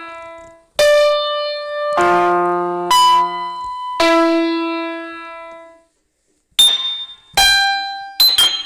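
Piano-like keyboard notes struck one or two at a time about a second apart, each ringing out and fading; after a short pause about six seconds in, quicker high notes begin near the end.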